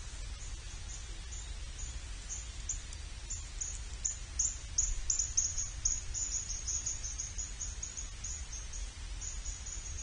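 A small bird chirping: short, high chirps repeated a few times a second, coming thickest around the middle, over a steady low rumble.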